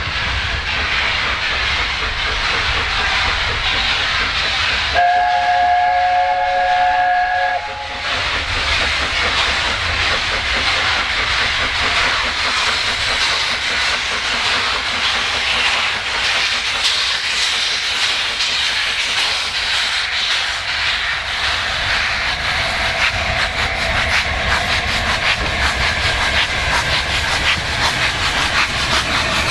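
Steam locomotive working a train past, a steady hiss of steam with rumble and rail clatter. About five seconds in, its whistle sounds for about two and a half seconds, several notes together.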